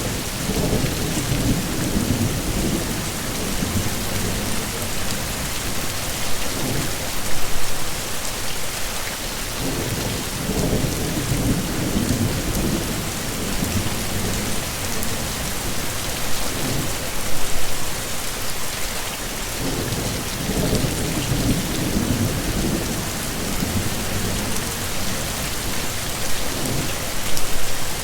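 Heavy steady rain hissing, with low rolling thunder rumbles that swell and fade about every ten seconds.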